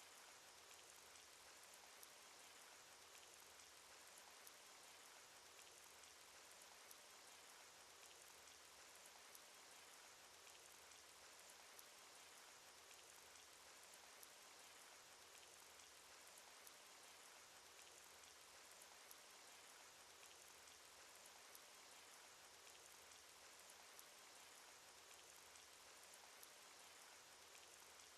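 Cartoon rain sound effect: a faint, steady hiss of falling rain with scattered drop ticks.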